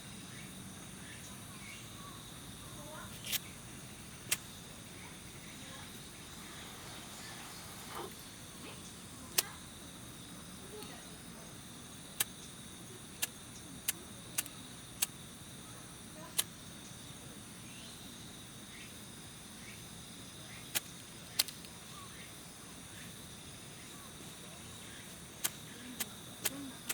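Small wood fire crackling, with sharp, irregular pops every second or few, over a steady high insect trill.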